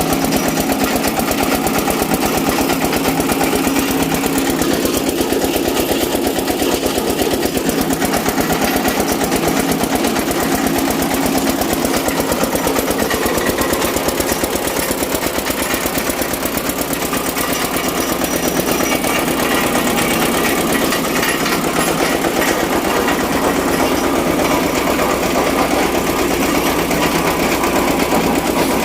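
22 HP Eicher diesel engine running steadily under load with a fast, even chugging beat, driving a hydraulic mini borewell rig while it bores.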